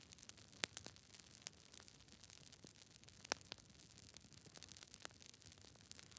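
Campfire crackling: a faint steady hiss with scattered sharp pops, the two loudest less than a second in and just past three seconds.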